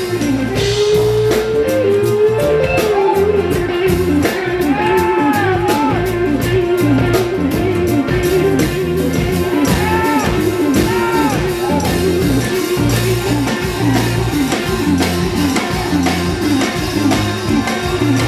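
Live band music: electric guitar over bass and drums with a steady beat.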